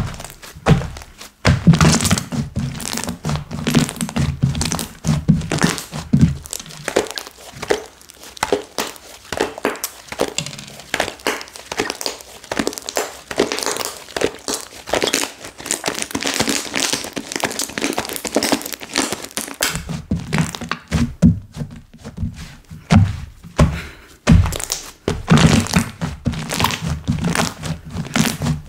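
Hands playing with slime, pressing, squeezing and poking it, giving a rapid, irregular run of pops, crackles and soft thunks.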